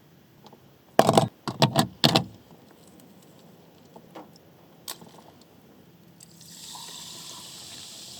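A quick run of loud clattering knocks as things are handled, a single click a few seconds later, then a steady hiss that starts about six seconds in and carries on.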